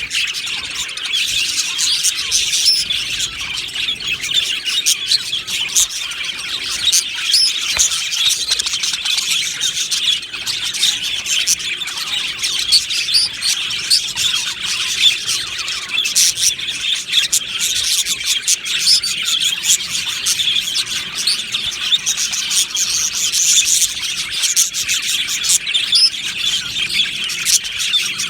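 A flock of budgerigars chattering and chirping all at once, many birds overlapping in a continuous, busy warble with sharp squawks mixed in.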